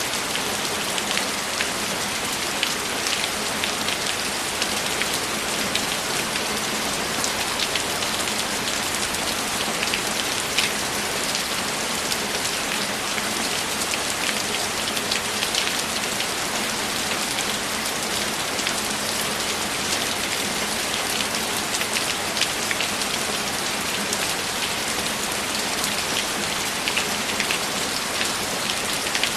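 Steady heavy rain, a constant hiss with many separate drops ticking sharply through it.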